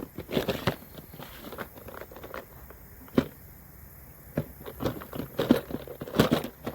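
Fishing tackle being rummaged through and handled: irregular clicks, taps and rustling of small plastic items, busiest near the end.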